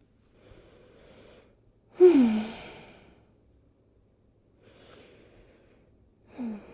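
A woman breathing slowly and deeply: a soft breath in, then a loud sighing breath out with a falling voice about two seconds in, another breath in, and a second sigh starting near the end.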